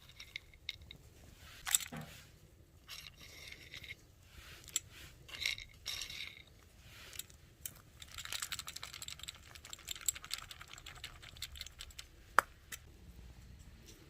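Small wood fire crackling in a metal nature stove, with scattered sharp clicks and knocks; the crackling thickens into a dense run about eight seconds in.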